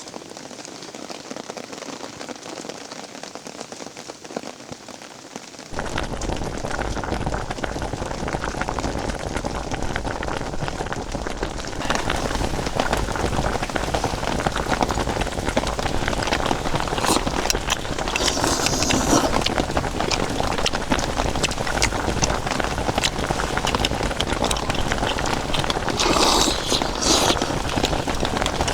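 Steady rain falling, with a dense patter of drops. It gets abruptly louder about six seconds in, when a low rumble joins it, and again about twelve seconds in.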